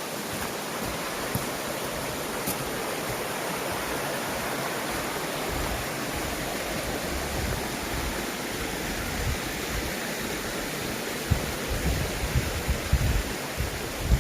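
Mountain stream swollen after rain, rushing water running steadily. Low rumbling and irregular thumps join in about halfway and grow more frequent near the end.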